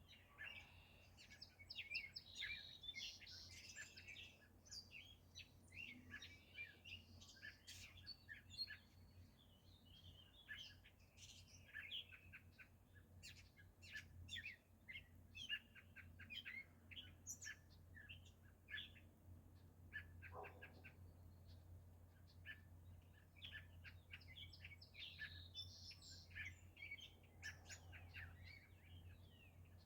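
Birds chirping and singing, many short quick calls overlapping throughout, over a faint steady low hum.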